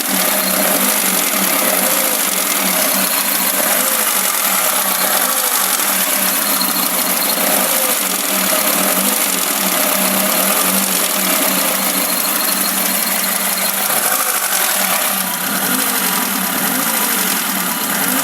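Classic VAZ (Lada) four-cylinder engine idling and being revved up and let fall again and again, with a knock as the throttle is released. The owner cannot say what the knock is: the timing chain is tensioned, though it sits loosely on the sprocket in places, the valves are adjusted, and the knock almost disappears once the engine is at operating temperature.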